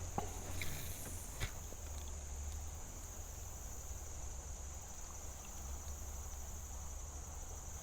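Steady high-pitched insect chirring, like crickets, over a low rumble, with a couple of faint knocks in the first second and a half.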